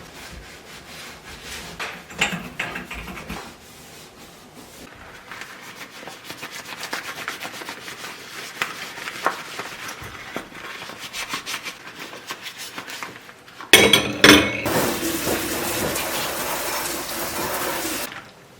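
Scrubbing and rubbing on kitchen surfaces, a run of small scratchy strokes. Near the end comes a sudden clatter, then a kitchen tap runs in a steady rush for about four seconds and is abruptly shut off.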